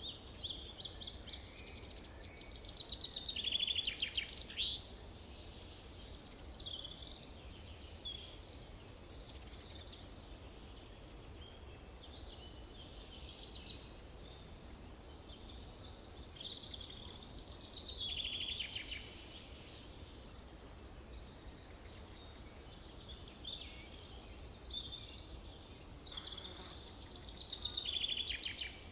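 Forest birdsong: several birds chirping and singing, with louder trilled song phrases three times, over a steady low rumble.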